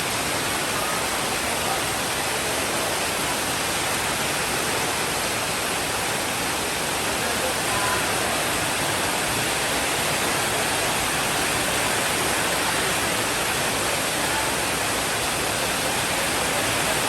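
Steady rainfall: a dense, even hiss that holds level without change.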